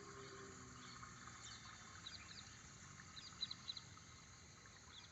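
Near silence outdoors, with a few faint, quick high chirps from a small animal, in short runs about one and a half and three and a half seconds in.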